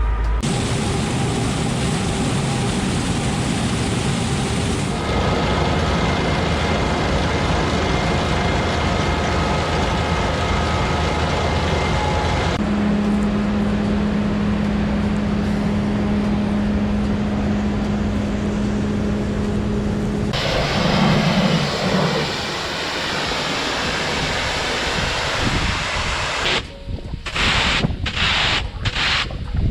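Engines of heavy farm machinery running steadily, in several stretches that change abruptly from one to the next.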